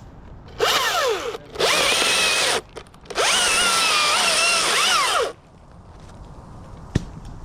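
Chainsaw revving in three bursts, the longest near the middle, its pitch rising under throttle and falling away as each burst is let off.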